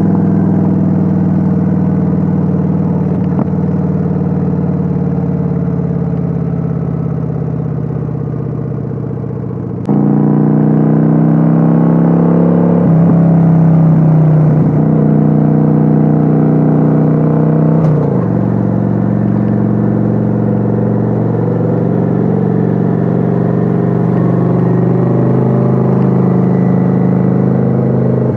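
Kawasaki Vulcan 900's V-twin engine heard from on board while riding. Over the first ten seconds the engine note eases down and gets quieter, then it jumps back louder all at once. After that the pitch rises and falls with throttle and gear changes.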